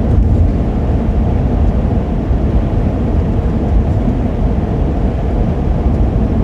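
Steady low rumble of engine, road and wind noise inside a moving vehicle's cab at highway speed. The engine is held at about 2,800 rpm because the 6-speed automatic transmission is stuck in a lower gear and won't shift up.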